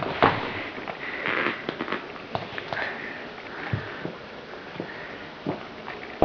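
Four-month-old golden retriever puppy sniffing and snuffling at a dog treat in repeated short bursts, with scattered knocks and taps.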